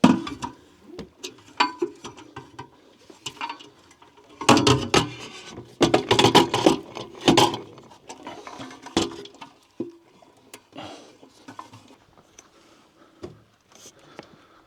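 Irregular knocking and clattering of gear being handled, with a dense run of knocks about four and a half to seven and a half seconds in.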